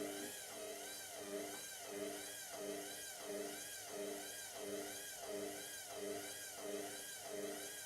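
Indesit washing machine's motor turning the drum slowly with a single bath mat inside, its whine rising and falling about one and a half times a second with each turn of the drum. The lone item leaves the load off-balance, so the machine keeps trying to even it out before the spin, which the owner expects it to give up on.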